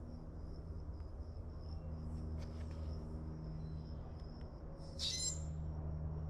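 Insects trilling steadily at a high pitch over a low steady hum, with a short louder chirping burst about five seconds in.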